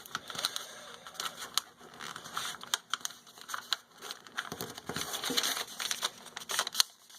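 A sheet of paper being folded and creased by hand: irregular crinkling and rustling with scattered sharp crackles.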